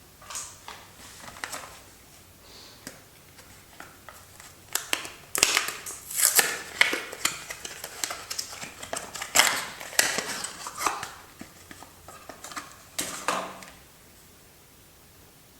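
Soap packaging being opened by hand: paper and card wrappers crackling and rustling in irregular crisp bursts, busiest in the middle, then stopping shortly before the end.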